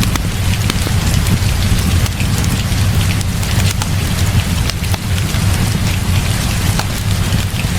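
Heavy rain falling steadily, with a low rumble underneath and many sharp ticks scattered through it.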